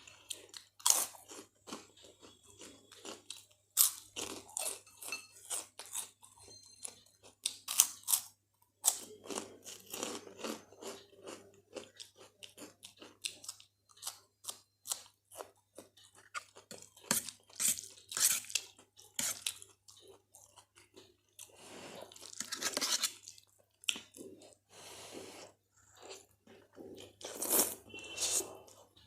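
Close-miked eating: a person chewing and biting crunchy Kurkure corn puffs with Maggi instant noodles, with irregular sharp crunches and wet chewing throughout.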